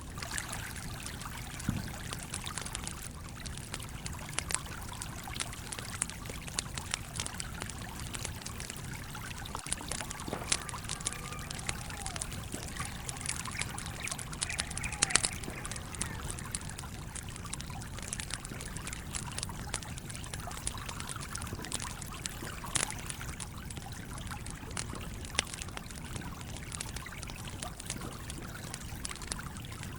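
Campfire crackling, with frequent irregular sharp pops, over the steady trickle and flow of a stream.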